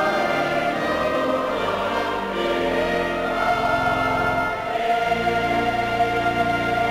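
Choir and congregation singing a hymn with instrumental accompaniment, in long held notes, moving to a new, lower-based chord about five seconds in.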